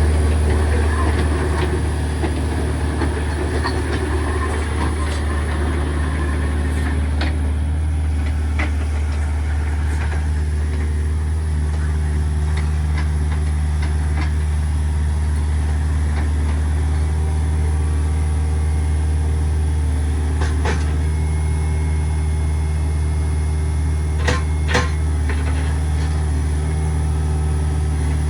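Heavy earth-moving machine's engine running steadily as it works with its bucket, with a few sharp knocks scattered through, about seven, ten, twenty-one and twenty-five seconds in.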